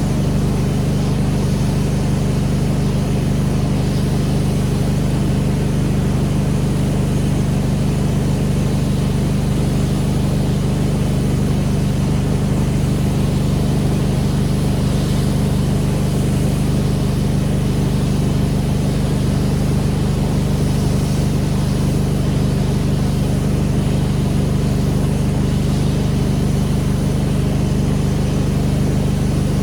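Pressure washer's engine running steadily at constant speed, a low drone under a continuous hiss.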